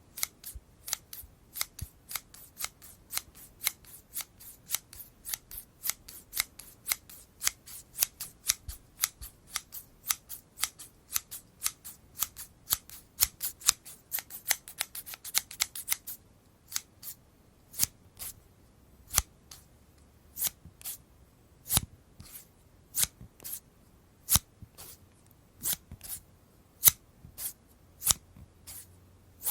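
Scissors snipping: quick, closely spaced snips, several a second, that slow about halfway through to separate single snips roughly once a second.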